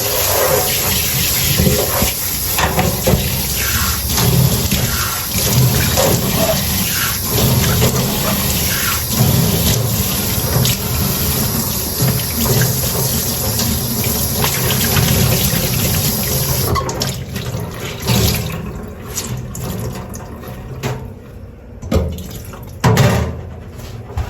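Tap running into a sink while dishes are washed, with frequent light clinks and knocks of tableware. The water shuts off about two-thirds of the way through, leaving a few scattered knocks and rubs of dishes, the loudest two near the end.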